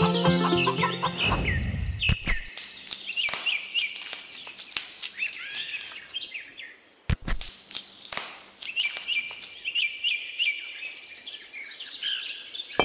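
Small birds chirping and twittering in short repeated calls and trills, after plucked-string music fades out in the first second or so.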